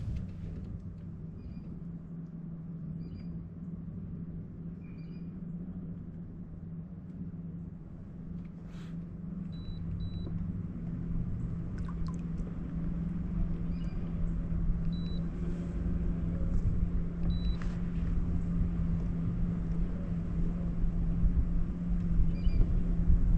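A boat motor running with a steady low hum over a rumble, slowly growing louder.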